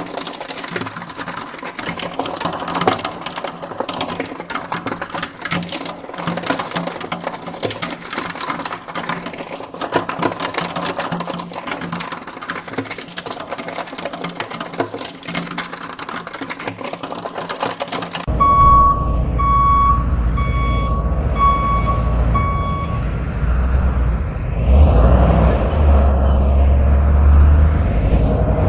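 A dense, rapid clattering of small clicks, swept from side to side, cuts off suddenly. A heavy vehicle's reversing alarm then beeps five times, evenly spaced, over a loud low engine rumble that swells again near the end.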